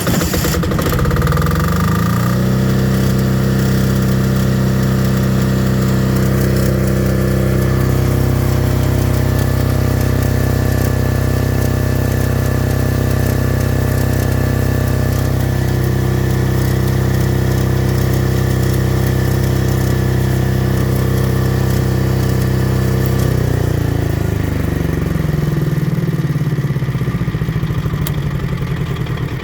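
Small diesel generator engine just after starting, coming up to speed over about two seconds, then running steadily. About twenty-three seconds in its speed drops, and it runs on at a lower, less even note.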